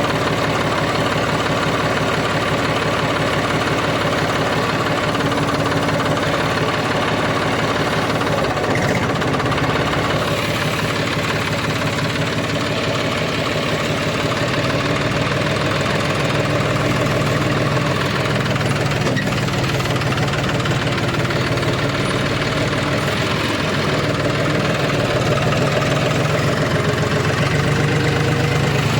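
Harvesting machine's engine running steadily at a constant speed for the whole stretch.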